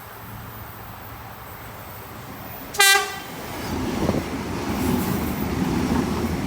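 A train's horn sounds one short toot about three seconds in. It is followed by the rumble of a train coming into the station, growing louder.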